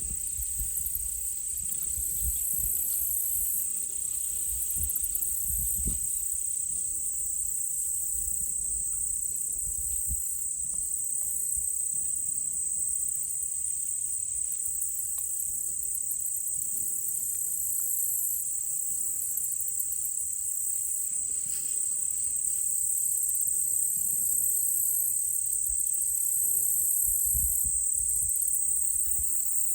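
A chorus of insects: one steady high-pitched buzz runs throughout, while a higher pulsing trill swells and fades in stretches of a second or two. A low rumble comes and goes underneath.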